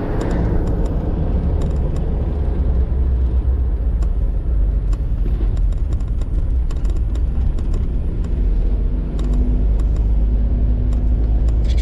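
Steady low rumble of a car being driven, with faint scattered clicks.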